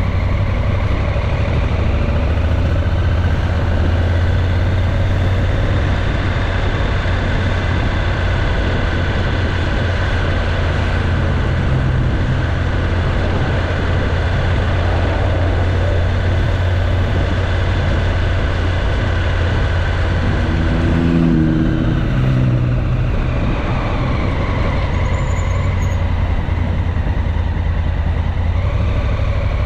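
Motorcycle engine running at a steady speed under a haze of road noise, heard from on the bike. Around twenty seconds in the note changes briefly before settling back to a steady hum.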